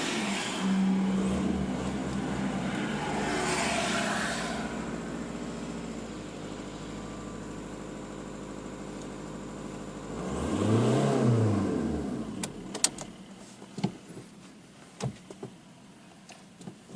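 VW Bora 1.9 TDI four-cylinder diesel running just after a cold start at −15 °C. The throttle is blipped briefly a couple of times, the engine idles, and about ten seconds in it revs up once and falls back. After that the engine sound drops much quieter and a series of sharp clicks and knocks follows.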